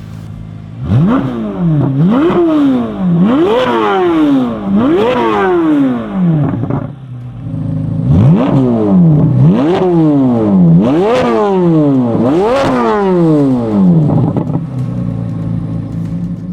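C8 Corvette Z06's 5.5-litre flat-plane-crank V8 revved through a Milltek valved stainless cat-back exhaust. It idles, then gives two sets of quick throttle blips, each rev rising sharply in pitch and falling back, with a short return toward idle between the sets and again near the end.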